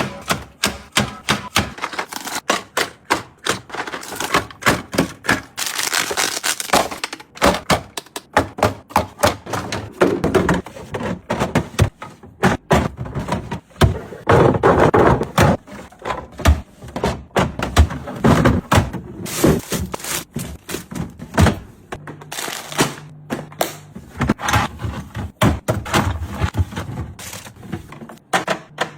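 Refrigerator being restocked, heard close up: a steady, irregular run of knocks, taps and clicks as containers and packaged food are set down and arranged on the shelves.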